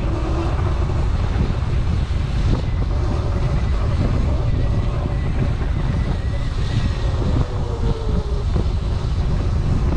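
Heavy wind buffeting on the microphone of a moving electric dirt bike, over tyre and trail rumble. A faint electric motor whine runs underneath and falls in pitch about seven seconds in.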